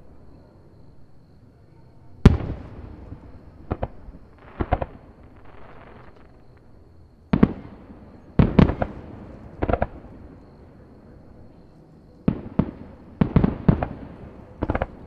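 Aerial fireworks shells bursting overhead: irregular booms that echo briefly, some single and some in quick clusters of two to four. The loudest comes about two seconds in.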